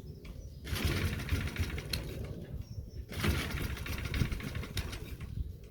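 Mountfield Empress 16 petrol lawnmower engine being started after a priming shot down the intake: it fires and runs roughly for about two seconds, falters about three seconds in, then catches and runs again before faltering near the end.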